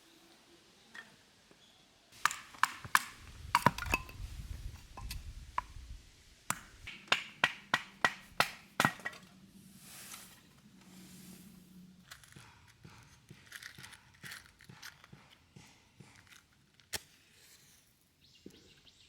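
A run of sharp cracks and knocks in quick succession, densest in the first half, then fewer and fainter clicks.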